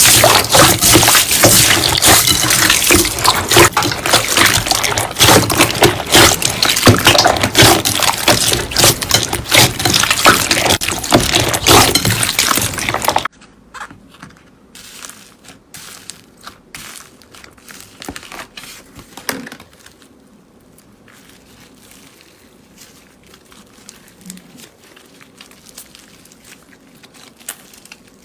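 Slime being squeezed and pressed by hand: loud, dense wet clicking and popping. About thirteen seconds in it cuts off suddenly, leaving only faint, scattered squishes and clicks.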